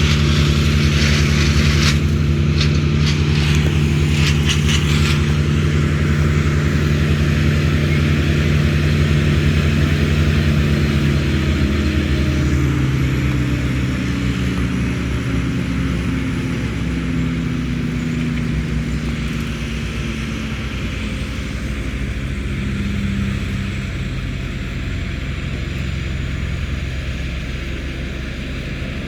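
A large engine running steadily, then slowing slightly in pitch and fading in the second half, with some crackling and snapping during the first few seconds.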